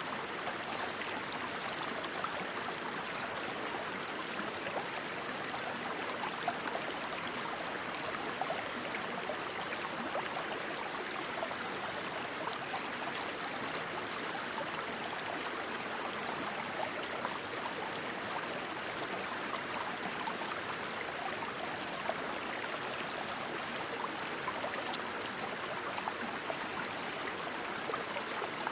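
Steady rushing stream water, flowing without a break. Over it come short high-pitched chirps at irregular intervals, with two quick trilled runs, one about a second in and one about halfway through.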